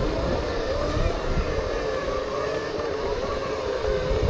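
Electric whine of Segway motors, the pitch wavering up and down as the riders speed up and slow down, over a rumble of wind on the microphone.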